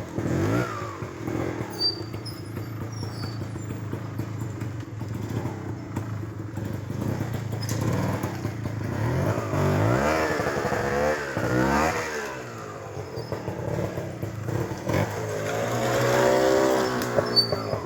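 Trials motorcycle engine running at low revs, blipped up and down several times in quick succession about nine to twelve seconds in, then revved up and back down once more near the end.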